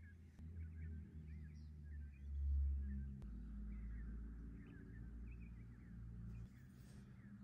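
Faint bird chirps over a low rumble that swells about two and a half seconds in.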